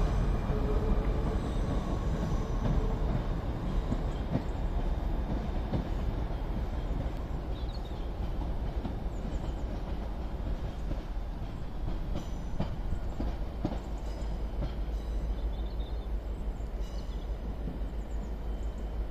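Class 158 and class 153 diesel multiple units pulling out and running away, a steady rumble with wheels clicking over rail joints that slowly fades.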